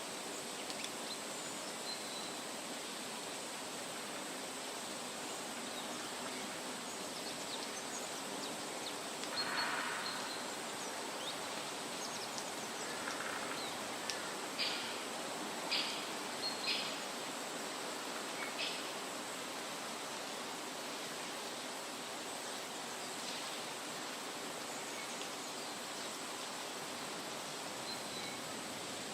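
Forest ambience: a steady outdoor hiss with a faint high tone, broken by a few short bird chirps in the middle, four of them in quick succession.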